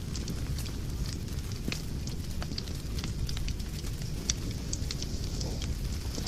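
Fire burning in a fireplace, crackling: irregular sharp snaps and pops over a steady low rumble, with a louder pop about four seconds in and another at the very end.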